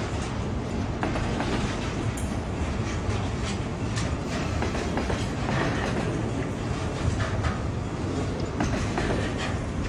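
Double-stack intermodal freight train rolling past, its well cars' steel wheels rumbling steadily on the rails, with irregular clicks as they cross rail joints.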